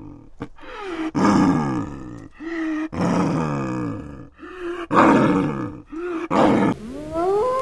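Snow leopards calling: several loud moaning yowls, each falling in pitch, with short growls between them. Near the end a wolf's howl starts, rising and then held.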